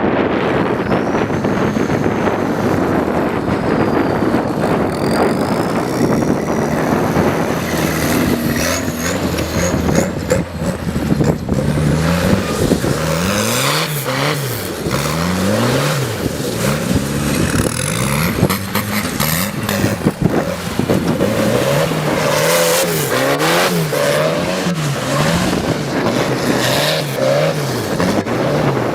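Tractor engine revving, its pitch climbing and dropping again and again, with a high whistle gliding up and down above it.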